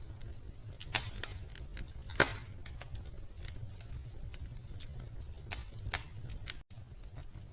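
Wood fire crackling in a fireplace: scattered sharp pops and snaps over a low steady rumble, the loudest pop a little after two seconds in. The sound breaks off for an instant near the end.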